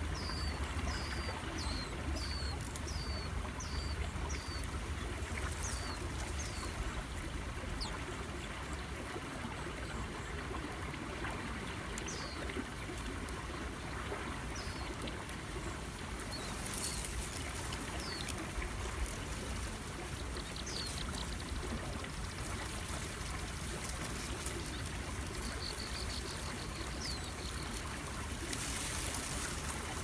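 A small bird giving short, high, down-slurred chirps, about two a second for the first several seconds, then only now and then, over the steady noise of river water.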